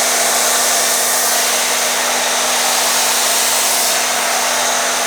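Pressure washer spraying snow foam through a foam cannon: a loud, steady hiss of spray over a faint steady hum from the washer's pump.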